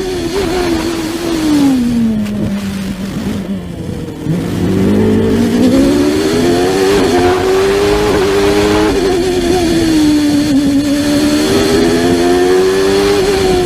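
1993 McLaren MP4/8's Ford Cosworth HB 3.5-litre V8, heard onboard at racing speed. Its pitch falls as the car slows for a corner and stays low for about two seconds, then climbs sharply as it accelerates out, stepping up through gear changes. It eases briefly and rises again near the end.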